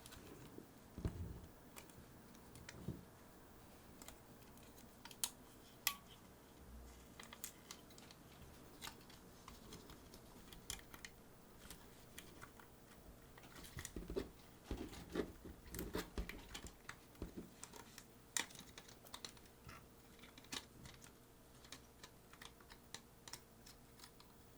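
Scattered light clicks and taps of small plastic and metal parts and a screwdriver being handled while the hard drive is taken out of a Sony HVR-DR60 recorder, with a run of soft knocks about halfway through.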